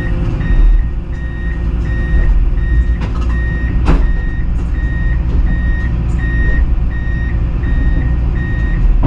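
Komatsu PC210 excavator's travel alarm beeping about twice a second over its diesel engine running as it tracks off the trailer. A sharp clank about four seconds in.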